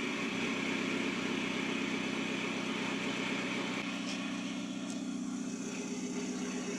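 Volkswagen TDI turbo-diesel engine idling steadily through a newly fitted 3-inch stainless steel dual exhaust.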